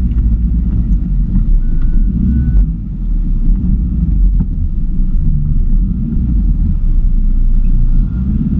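Volkswagen Golf IV 4x4 rally car's 1.9 TDI turbodiesel running steadily at low revs, a low drone heard from inside the cabin.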